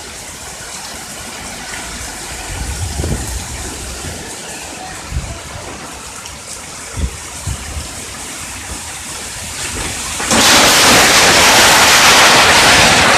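A storm of strong wind and rain. Low gusts buffet the microphone, with a few short knocks. About ten seconds in, the noise jumps suddenly to a much louder rush of wind-driven rain.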